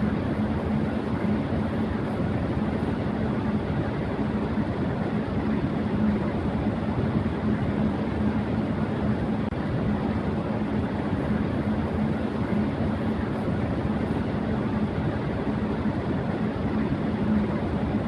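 Electric fan running at high speed: a steady rush of air with a steady low hum underneath.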